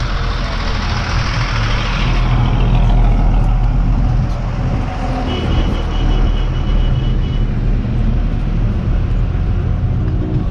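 Motor vehicle engine running steadily with road noise, a low continuous drone. A faint high tone sounds for about two seconds in the middle.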